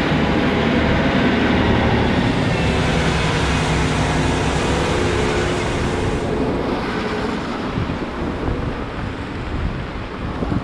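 Large farm tractor running steadily, a continuous engine hum with a hiss over it that thins out about six seconds in.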